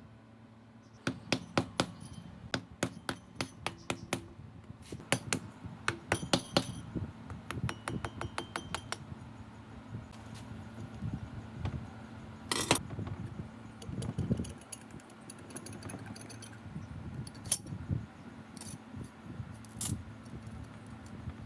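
Small metal engine parts and hand tools clinking and tapping against one another with a short metallic ring: quick runs of clinks for the first several seconds, then scattered single ones. A steady low hum runs underneath.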